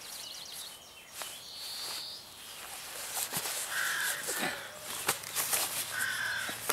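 A crow cawing several times in the second half, in short harsh calls with gaps between them.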